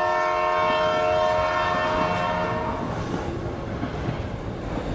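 Train sound effect: a long horn blast that fades out about two to three seconds in, over the rumble and clatter of a passing train, which slowly fades toward the end.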